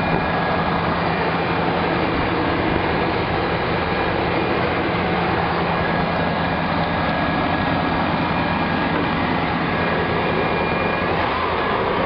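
Chevrolet engine running steadily and evenly, a good running engine.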